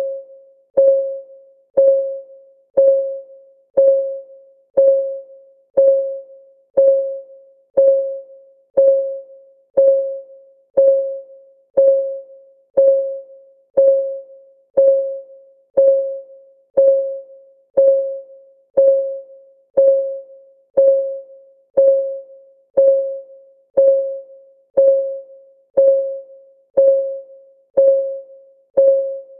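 Steady clock ticking for a countdown timer, about one tick a second. Each tick is a short, pitched, ringing click that dies away quickly.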